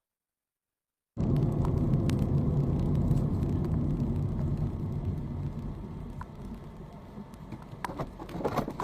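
Low vehicle rumble of engine and road noise, starting abruptly about a second in out of dead silence and easing off gradually, with a few light clicks.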